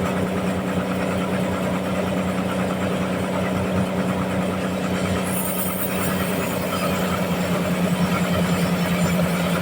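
Sawmill machinery running with a steady, loud drone. A brief high hiss comes about five seconds in, and the sound grows slightly louder near the end.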